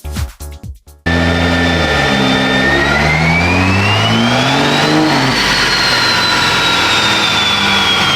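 Background music that cuts off about a second in, then a vehicle engine being revved: its pitch climbs for about two seconds and drops back, while a high whine rises with it and then slowly falls away as the revs come down.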